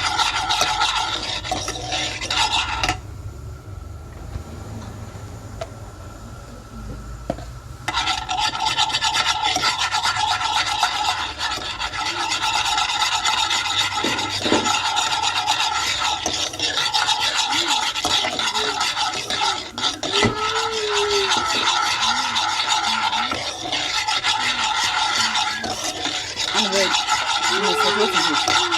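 A utensil rasping in quick strokes against a pan as the gravy base is stirred while it browns. The stirring stops for a few seconds near the start, then goes on steadily.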